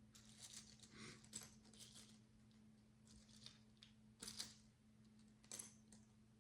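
Faint clicks and rustles of micro building bricks being handled and pressed together, in small irregular clusters, the sharpest click a little over four seconds in. A low steady hum runs underneath.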